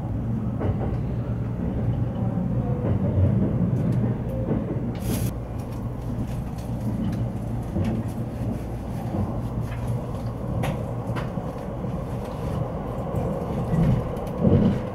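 Cabin noise of an E657-series limited express train running at speed: a steady low rumble of wheels and running gear, with scattered clicks from the track, a brief sharp clack about five seconds in and a louder knock near the end.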